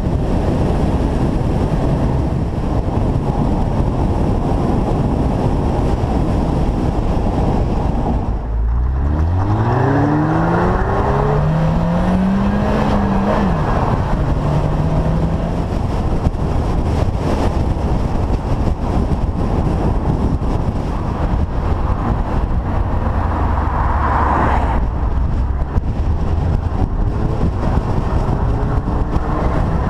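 Car engine accelerating hard, rising in pitch through one gear, shifting up and rising again, then dropping back and holding a steady note. Heavy wind and road noise on a bonnet-mounted microphone run under it throughout.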